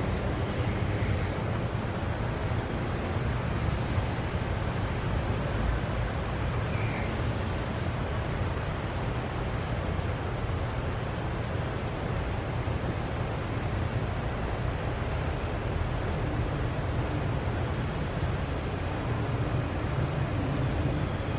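Small wild birds give short, high chirps a dozen or so times, over a steady low rumbling background noise. The chirps come more often near the end.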